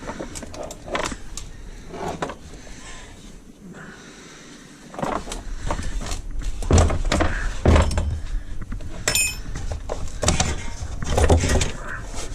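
Scattered knocks, clicks and clatter of metal parts and gear being handled while a workspace is set up. A short high squeak comes about nine seconds in.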